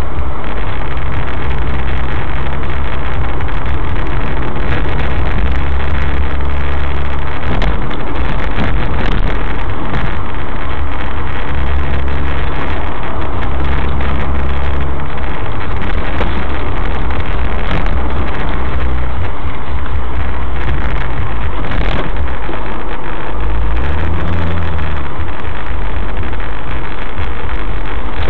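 Suzuki SX4's four-cylinder engine, breathing through a K&N Apollo intake filter, running at cruising speed with tyre and road noise, heard from inside the cabin. The engine note swells and falls back once about 24 seconds in.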